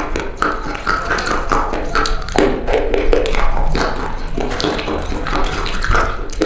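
Old, dried-out bar soap being cut with a blade, crunching and crackling in a dense run of small snaps as it breaks apart.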